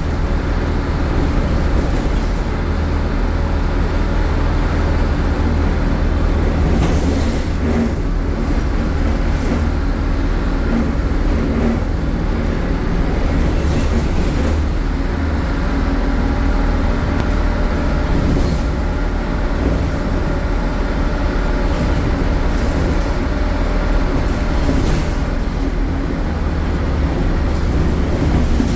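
MAN Lion's City city bus engine (MAN Euro 4 unit driving a ZF gearbox) running under way: a loud, steady low drone, with a few short rattles through it.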